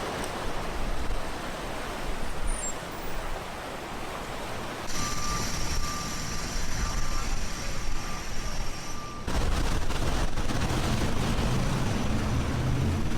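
Street traffic noise: a steady rush at first, then a steady high whine for a few seconds mid-way, then a louder low vehicle engine rumble near the end.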